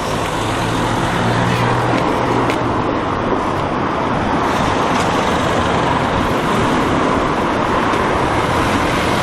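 Road traffic running close by: a steady rush of tyre and engine noise, with a vehicle's low engine hum standing out in the first couple of seconds.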